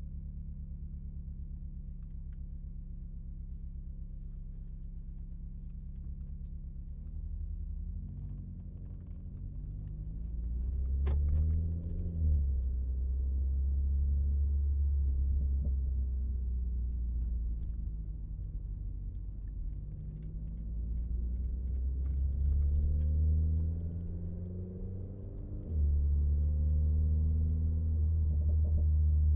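Renault Mégane RS Trophy's turbocharged four-cylinder engine idling steadily, then pulling away with the revs rising and falling repeatedly. It grows louder from about ten seconds in, with a sharp click near eleven seconds and a step up in loudness near the end.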